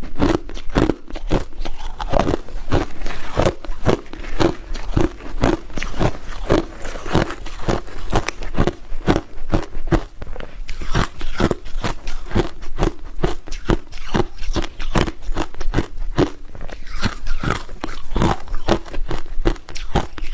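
A person biting and chewing ice cubes, a steady run of sharp crunches about two or three a second.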